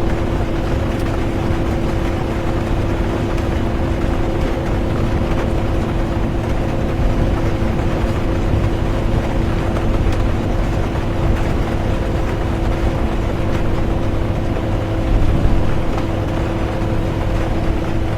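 Inside a bus on the move: steady low road rumble and an even engine hum, with rain hissing over it and a few faint scattered taps.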